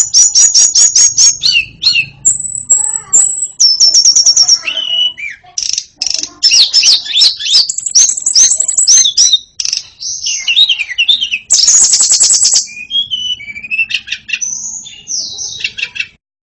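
White-rumped shama singing: a loud, varied song of rapid high trills, repeated notes and whistled glides, cutting off suddenly near the end.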